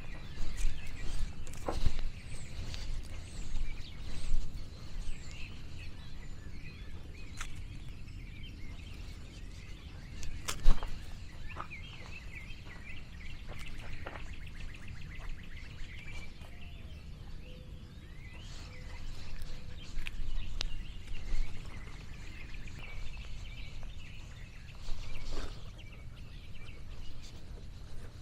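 Outdoor ambience: small birds chirping over a constant low rumble, with scattered sharp clicks and rustles, the loudest about a third of the way in.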